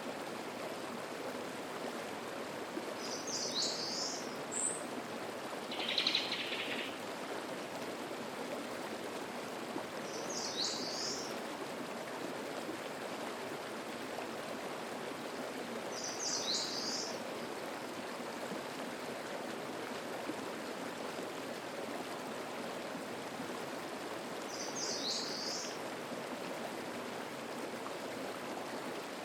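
Mountain stream babbling steadily over rocks. A songbird repeats a short, high call four times, several seconds apart, and a lower, buzzier bird call about six seconds in is the loudest sound.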